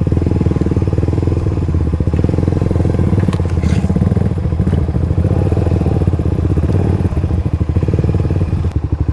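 Motorcycle engine running steadily close to the microphone, a fast even pulsing of its exhaust.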